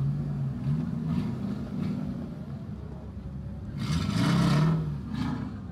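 A car engine running at low revs, its pitch wavering up and down, with a short, louder rush of noise about four seconds in.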